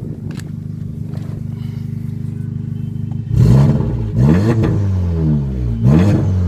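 Audi S3 8V's turbocharged 2.0-litre four-cylinder, on a Revo stage 2 tune with a Skat downpipe and Scorpion exhaust, idling steadily. It is then revved in three quick throttle blips that each rise and fall, the first about three seconds in.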